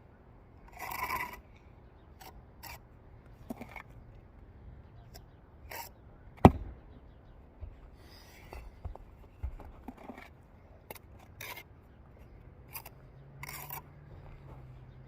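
Steel brick trowel scraping and spreading mortar on brick, with a longer scrape about a second in and short scrapes and clicks after it. One sharp tap on a brick about halfway through is the loudest sound.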